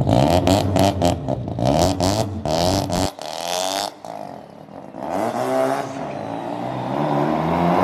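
BMW M twin-turbo inline-six revved repeatedly through a loud exhaust, its note climbing several times, with rapid pops and crackles during the first three seconds: the overrun bangs of a flame tune on catless downpipes.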